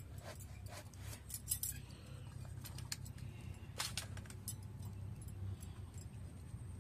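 Scattered light metallic clinks and clicks at irregular intervals, two of them louder, about a second and a half in and near four seconds, over a steady low hum.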